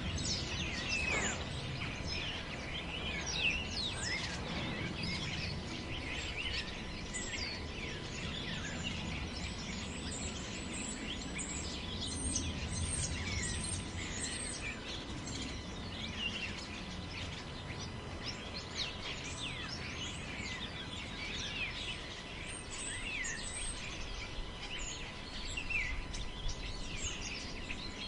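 Wind through a forest as a low, steady rumble, with many birds chirping and calling over it throughout.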